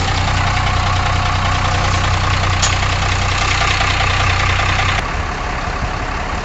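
Truck engine idling steadily with a low hum. About five seconds in, a sharp click, and the sound abruptly turns quieter and rougher.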